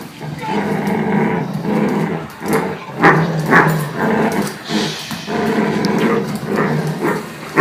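A dog growling in play while tugging on a rope: a continuous rough, rumbling growl broken by several short, louder outbursts.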